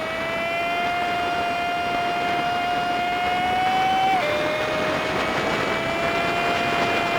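Honda Super Cub 50's single-cylinder four-stroke engine running at a steady pace under wind and road noise, heard sped up with the fast-forwarded footage as a high, steady whine. About four seconds in the pitch drops suddenly, as at a gear change, then slowly climbs again.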